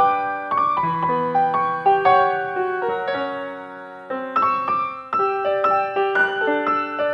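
Background piano music: a gentle melody of single notes over chords, with the playing softening about four seconds in before picking up again.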